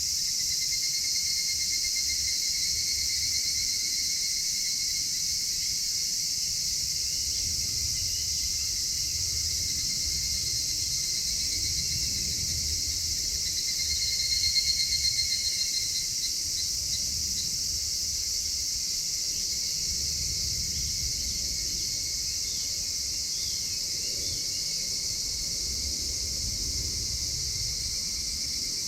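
Insects shrilling steadily, with a cricket trilling at a high pitch that grows louder about halfway through. A low, uneven rumble sits underneath.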